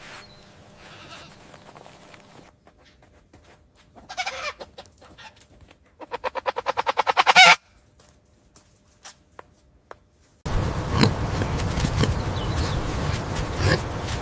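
Chickens clucking, with a fast run of clucks that grows louder about six seconds in. A louder, noisier stretch with sharp calls starts about ten seconds in.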